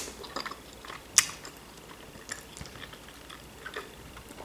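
Close-up mouth sounds of a person biting and chewing a boiled shrimp dumpling, with small wet clicks and one sharp click about a second in.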